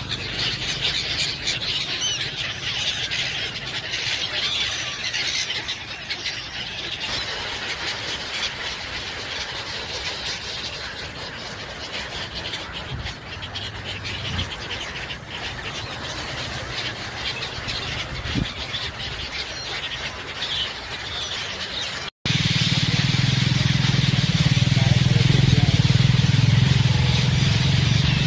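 A flock of birds calling constantly over a steady outdoor noise. About 22 seconds in, the sound cuts abruptly to a louder, steady low engine hum.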